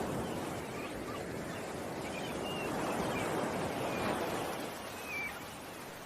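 Ocean waves washing in surges that swell and fade, with short, high bird chirps now and then over them.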